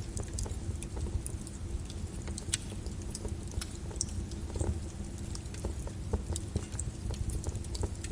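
Lava flow crackling: many irregular sharp clicks and pops over a steady low rumble.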